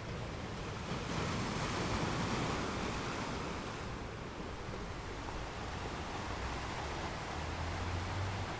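Ocean waves washing on the shore in a steady rush, with a wave swelling about a second in and another building near the end.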